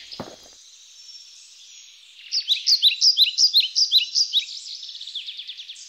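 Birds singing: a faint high trill at first, then from about two seconds in a loud run of quick, down-slurred chirps, several a second.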